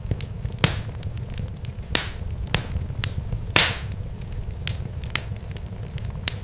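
Irregular sharp crackles and pops over a steady low rumble, with three louder pops about 0.7, 2 and 3.6 seconds in.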